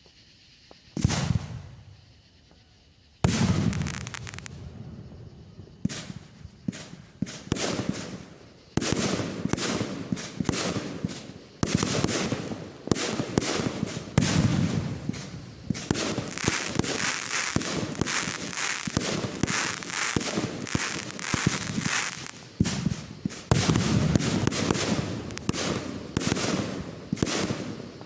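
Fireworks going off: a loud report about a second in and another about three seconds in, each trailing off. From about nine seconds in comes a dense, continuing run of sharp bangs and crackling, several a second.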